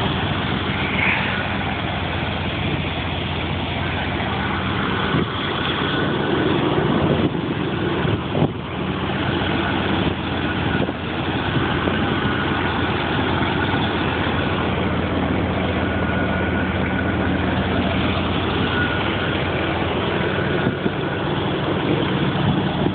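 1981 Chrysler Imperial's V8 engine idling steadily shortly after a cold start in freezing weather, warming up.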